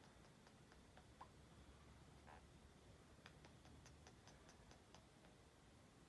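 Faint clicking from a pet bird: scattered soft clicks, then a quick run of about eight sharp clicks at about five a second in the second half.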